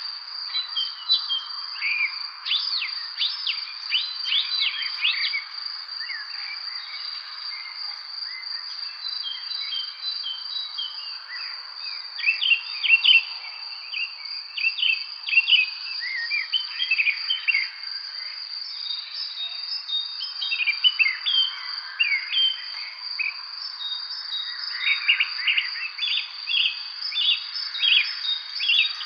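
Several songbirds chirping and singing in short, overlapping phrases over a steady, unbroken high-pitched insect trill.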